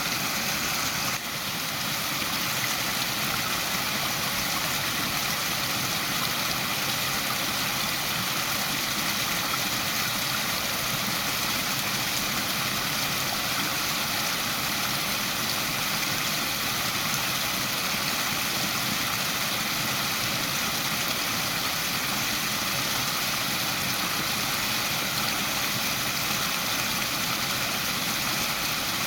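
Waterfall: a steady rush of falling water, with a brief dip in level about a second in.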